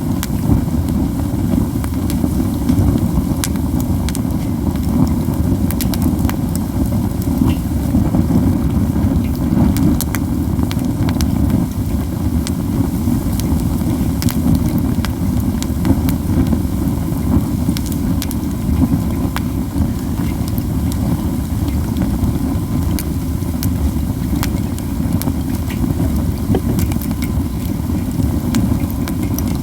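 Burning pine cones crackling and popping: frequent sharp snaps over a dense, steady low rushing noise.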